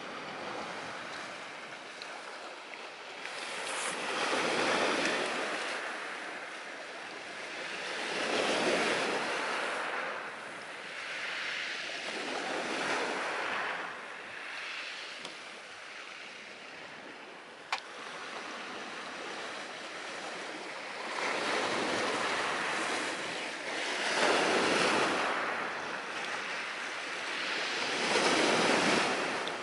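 Sea surf washing ashore, the rush of each wave swelling and ebbing every few seconds. About two-thirds of the way through there is one sharp snap from the wood fire burning in a portable fire stand.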